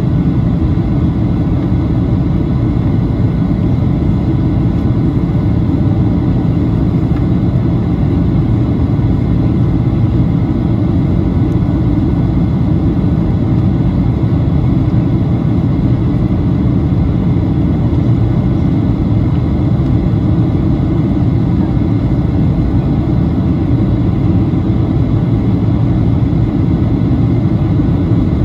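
Steady cabin noise inside a Boeing 737-800 in flight: the deep, even rumble of the CFM56 turbofans and the airflow past the fuselage, with faint steady whines above it.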